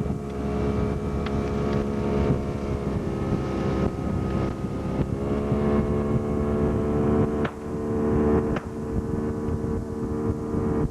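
Motorboat engine running steadily under way, its pitch dipping briefly about halfway through and coming back up, with wind on the microphone.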